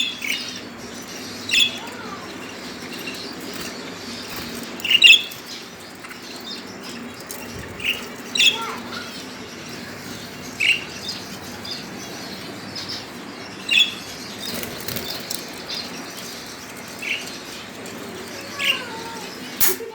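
Lovebirds giving short, shrill chirps, about ten of them spaced a second or a few seconds apart, some sliding quickly down in pitch, over a steady low background hum.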